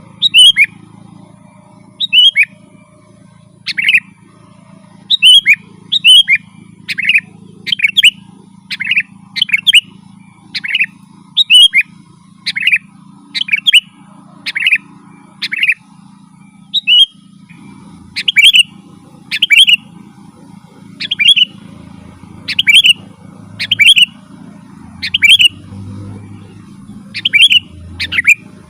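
Sooty-headed bulbul (kutilang) calling over and over in short, bright two- or three-note phrases, about one phrase a second, with a faint low steady background noise.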